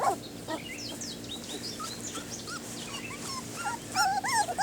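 Young puppies squeaking and whimpering in short high-pitched calls, which come thicker toward the end, with small birds chirping in the background.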